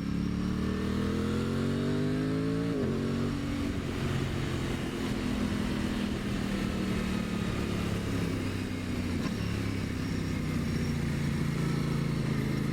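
A 2023 Aprilia Tuono 660's parallel-twin engine pulling uphill. Its pitch rises for nearly three seconds, drops sharply on an upshift, then holds fairly steady under load. Wind rushes over the microphone throughout.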